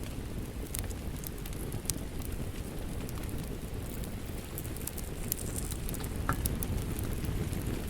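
Wood fire crackling with scattered sharp pops over a steady rain-like hiss and low rumble.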